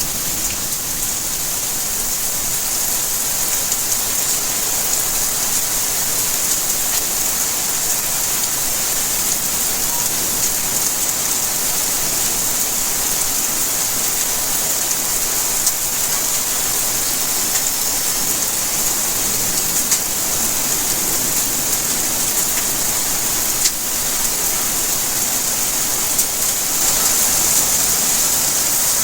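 Steady rainfall: an even hiss of rain falling on surfaces, with a few sharper drops ticking now and then.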